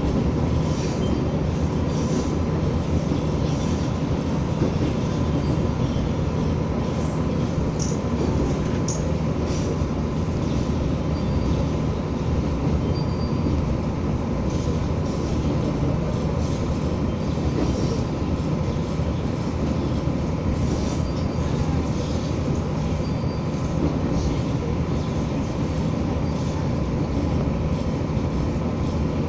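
Materfer railcar CM-2503 running along the line: a steady rumble of engine and wheels on rail, with a thin steady whine and scattered light clicks.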